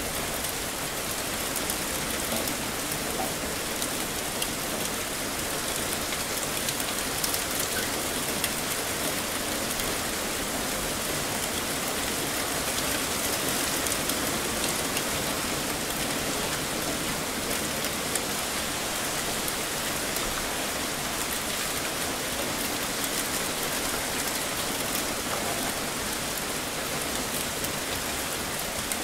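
Heavy rain pouring steadily: a dense, even hiss with many small drop ticks and no letup.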